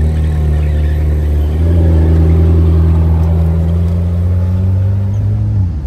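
Sports car engine running loud with a deep, steady note. The pitch steps up about a second and a half in, edges higher near the end, then drops away sharply.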